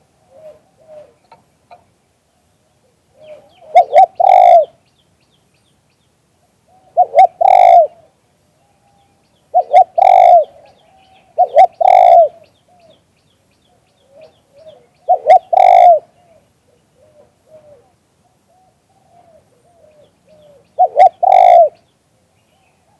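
A pet dove cooing: six loud phrases of two or three low coos each, a few seconds apart, with softer cooing notes in between.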